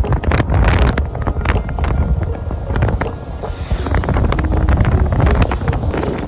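Heavy wind buffeting the microphone on a moving motorbike, over a low rumble.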